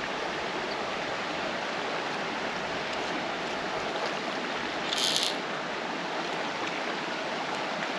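Creek water running steadily over the stream bed, with a brief high rattle about five seconds in.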